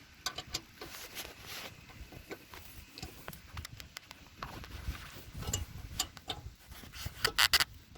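Ratchet torque wrench clicking and tapping as the small bolts of a lawnmower blade plate are tightened, irregular clicks with a quick run of louder clicks near the end.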